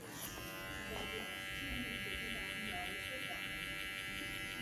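TPOB GO electric hair clippers running with a steady buzz.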